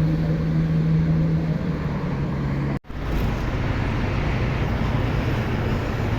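Steady road-traffic noise with a low engine hum, cut off for an instant just under three seconds in, then continuing steadily.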